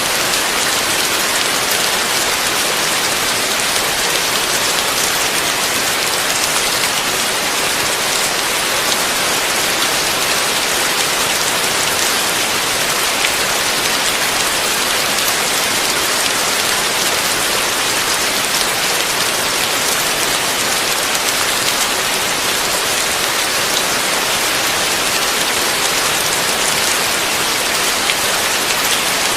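Heavy rain falling steadily: an even, unbroken hiss with fine pattering drops and no thunder.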